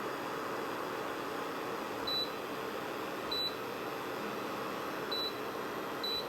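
Four short high beeps from the VBGK induction cooktop's touch-control panel as its setting is changed, over the steady hiss of the cooktop's cooling fan.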